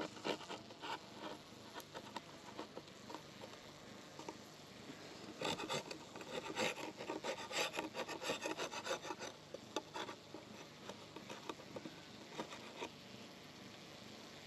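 Irregular scraping and rubbing, a run of quick clicks and scrapes that grows busiest in the middle and thins out near the end.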